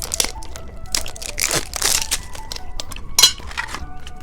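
Crinkling and crackling of plastic candy packaging being handled, in irregular bursts with sharp clicks, one louder snap about three seconds in.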